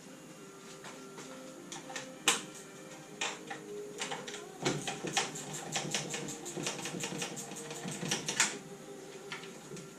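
Ratchet wrench clicking in quick strokes for several seconds while working a fastener on a classic Mini's engine. Before that comes one sharp metallic knock, with scattered tool clinks around it.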